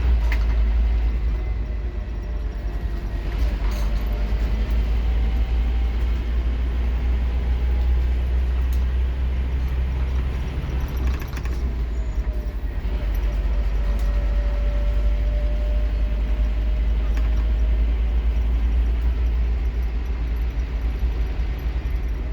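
Scania K230UB Omnilink bus's five-cylinder diesel engine, heard from inside the bus, running under hard acceleration with a deep, steady drone and a faint rising whine, easing briefly about eleven seconds in.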